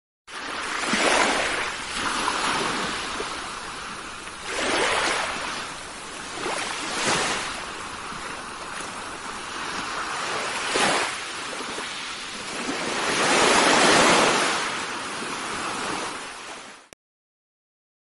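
Ocean waves washing in: a rushing hiss that swells and ebbs every few seconds, then cuts off suddenly near the end.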